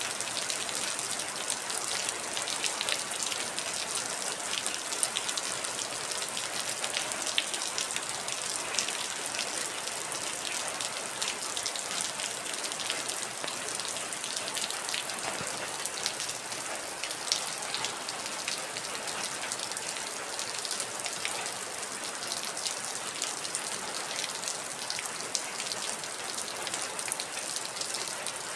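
Heavy rain falling steadily, a dense hiss with the patter of individual drops striking a surface.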